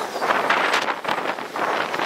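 Container freight train's wagons rushing past at speed: a loud rush of air and wheel noise that swells and dips in quick surges as each container goes by, with the train's slipstream buffeting the microphone.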